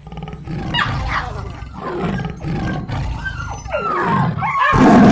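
A tiger growling and roaring over and over, with the loudest roar near the end.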